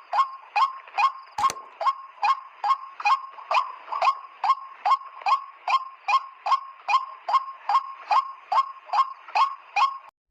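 White-breasted waterhen 'ruak' calls, short nasal notes repeated steadily about three times a second, stopping abruptly near the end; a single sharp click sounds about a second and a half in.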